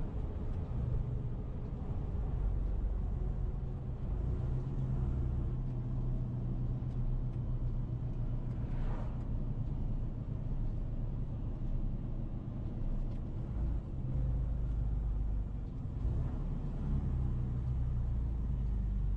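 A car running steadily, with a continuous low engine and road rumble.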